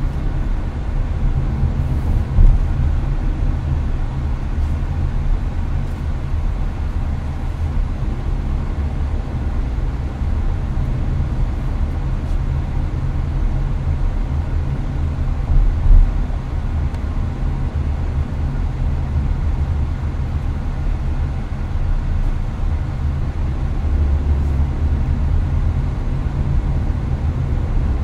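Steady road and engine rumble heard inside a Hyundai Avante (Elantra) cabin at highway speed, with air-conditioner fan noise mixed in. Two brief low thumps come through, one about two seconds in and another about sixteen seconds in.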